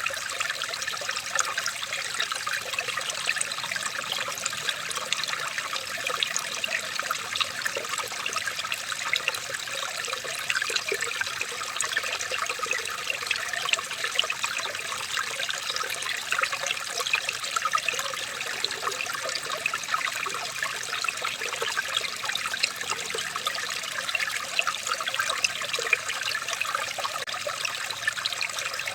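Running water trickling and bubbling steadily, as in a small stream.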